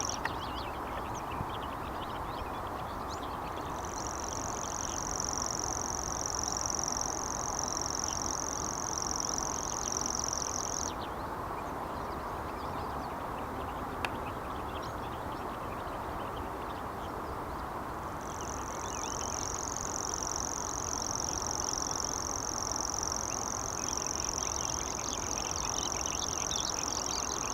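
A common cricket singing a continuous high-pitched trill in two long bouts: about four seconds in for seven seconds, then again from about eighteen seconds on, over a steady background noise.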